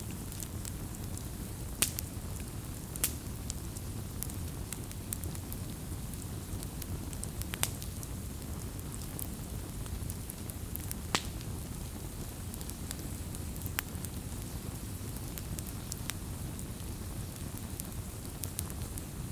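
Wood fire burning with a steady low rumble of flames and scattered sharp crackles and pops, the strongest about 2, 3, 7.5, 11 and 14 seconds in.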